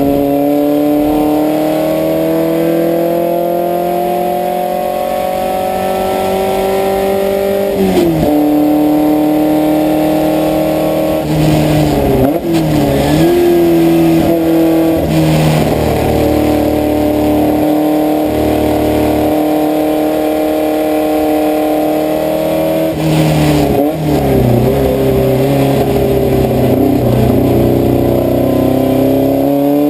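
Puma sports car's engine heard from inside the car at racing pace, its pitch climbing steadily as it pulls through the revs. The revs drop sharply about eight seconds in, dip again twice more, around twelve and twenty-four seconds, and hold high and steady in between.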